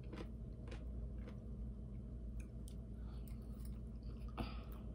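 A person chewing a mouthful of baked potato with the mouth closed, with soft, irregular wet mouth clicks and a slightly louder smack about four and a half seconds in. A low steady hum runs underneath.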